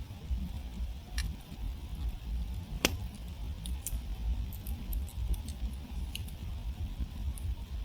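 Wood campfire burned down to glowing embers, crackling with scattered small pops and one sharp, loud pop about three seconds in, over a steady low rumble.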